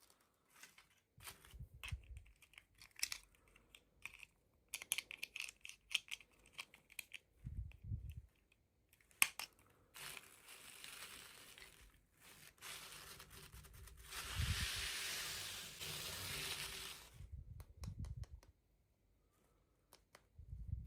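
Toy packaging being handled and opened: scattered clicks and taps with a few dull thuds, then two longer stretches of crinkling and tearing, the louder one a little past the middle.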